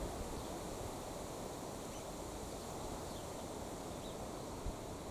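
Steady low outdoor background noise with a few faint, brief high bird chirps, and one soft thump near the end.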